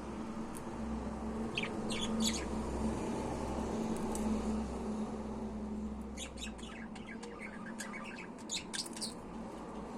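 Budgerigar chirping in short high chirps: a few about two seconds in, then a busier run of chirps from about six to nine seconds, over a steady low hum.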